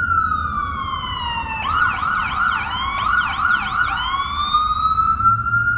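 Emergency vehicle siren: a slow wail falling in pitch, switching about a second and a half in to a fast yelp, then back to a slow rising wail, over a low engine rumble.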